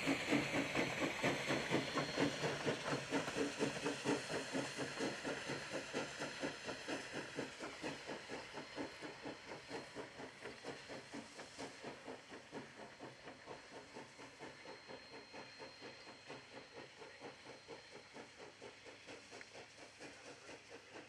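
Sierra No. 3, a 4-6-0 steam locomotive, chuffing in a steady rhythm of exhaust beats with hissing steam, growing steadily fainter as it pulls away.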